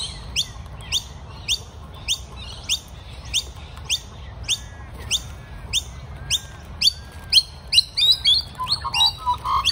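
Young Australian magpie giving short, high chirps over and over, each one falling in pitch, about one and a half to two a second, turning quicker and more uneven near the end.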